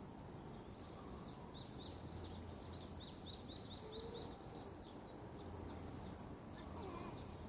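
A songbird singing a phrase of short high chirps that runs into a quick even series of repeated notes, about four a second, ending around the middle, over a steady low background hum.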